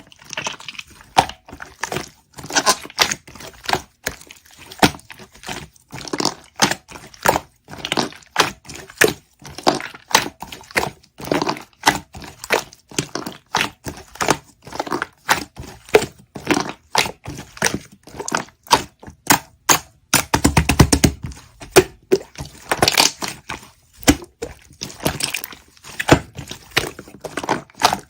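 Slime mixed with clay being pressed, poked and squeezed by hand, giving a steady run of sharp crackling clicks and pops, with a dense burst of crackles about three quarters of the way through.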